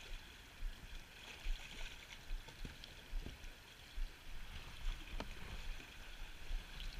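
Outdoor water ambience with wind buffeting the microphone: a steady wash of moving water, uneven low gusts and a few light knocks.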